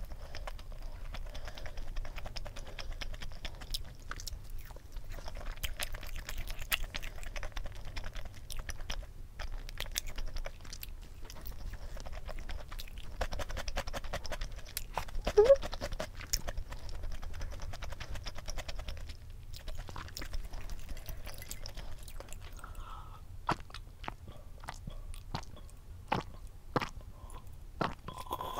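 Close-up chewing of crispy fried chicken and pickled radish cubes: many small crunches, clicks and mouth smacks.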